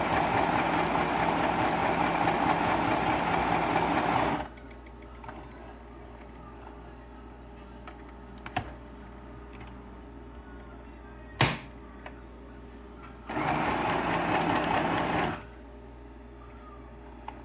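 Donyer Power electric sewing machine stitching in two runs: one that stops about four seconds in and a shorter one of about two seconds near the end. Between the runs there are a few sharp clicks, the loudest one midway.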